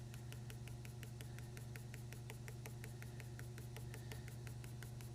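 Quick, short drawing strokes scratching in a fast, even rhythm of about eight a second while grass is sketched in, over a steady low hum.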